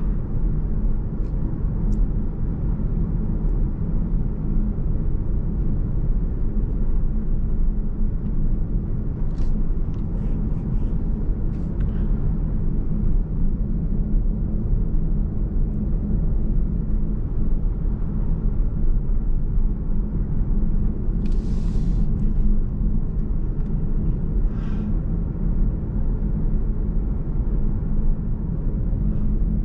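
Steady low rumble of a car's engine and tyres on the road, heard from inside the moving car, with a few faint ticks and a short hiss about two-thirds of the way through.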